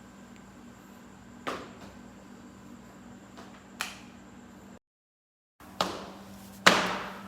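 Four scattered sharp knocks, irregularly spaced, the last near the end the loudest, over a steady low hum. The sound cuts out completely for under a second shortly before the last two knocks.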